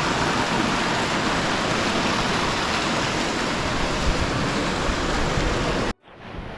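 Steady rushing of running water in a mountain canyon, mixed with low wind buffeting on the microphone. It cuts off abruptly near the end, and a much fainter hiss follows.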